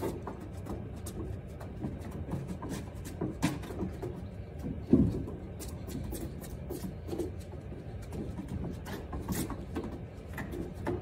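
Quick shuffling footsteps on wooden decking: feet tapping and scuffing the boards in an irregular run of short knocks, with one heavier thump about five seconds in.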